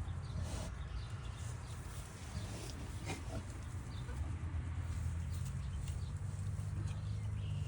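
Scattered farm animal noises over a steady low hum.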